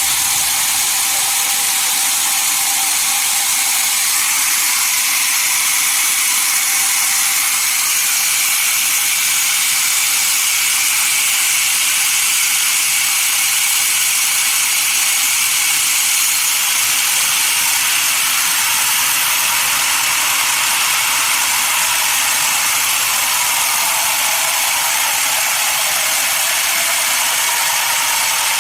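Sawmill saw cutting through a log: a loud, even high hiss with a faint whine underneath, steady without pauses.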